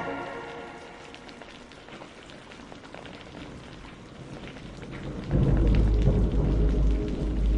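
Steady rain with scattered drops pattering, then about five seconds in a sudden, loud, low thunder rumble rolls in.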